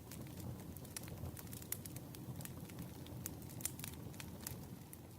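Wood campfire burning, with many sharp, irregular crackles and pops over a steady low rumble of the flames.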